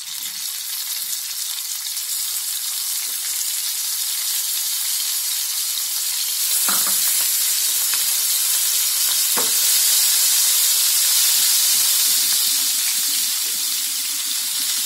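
Raw tiger prawns sizzling in hot mustard oil as they are shallow-fried in a pan. The sizzle grows louder as more prawns go in, and two light knocks come around the middle.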